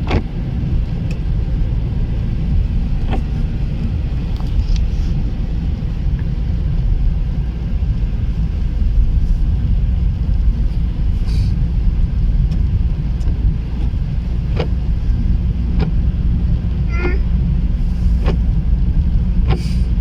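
Car driving along a road: a steady low engine and road rumble, with a few faint, irregular clicks.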